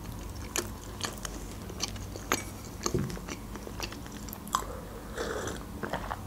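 Close-miked chewing of a bite of small pizza: wet mouth smacks and sharp clicks, then a sip from a glass mug near the end.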